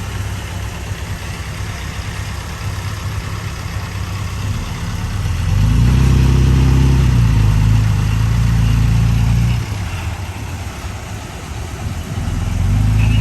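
Heavy earth-moving machine's diesel engine running, swelling to a louder, deeper pull under load from about five and a half seconds in until nearly ten seconds, then easing back to a steady run.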